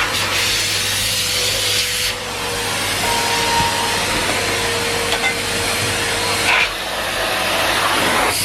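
Numatic Henry Pet vacuum cleaner running: a steady rush of suction with a low hum and a faint whine. The sound changes about two seconds in and again near the end as the nozzle moves.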